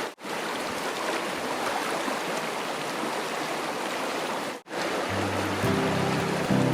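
Mountain valley stream running steadily over rocks, an even rush of water, broken twice by brief drop-outs. Background music with low sustained notes comes in about five seconds in.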